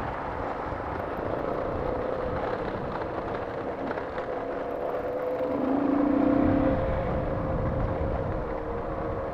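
Motorcycle engine running steadily under way, with wind and road noise. About five and a half seconds in, a second, lower engine note swells for about a second.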